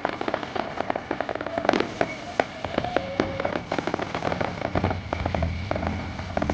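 Aerial fireworks display: rapid crackling pops and sharp bangs, with a whistling tone in the middle and deeper booming bursts in the later part.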